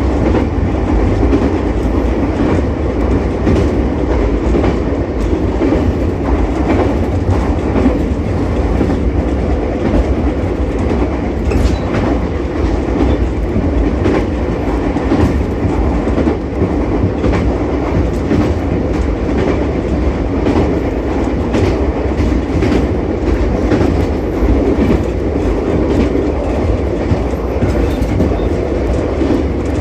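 Ichibata Electric Railway 7000-series electric railcar running along the line: a steady rumbling run noise with scattered clicks of the wheels over rail joints.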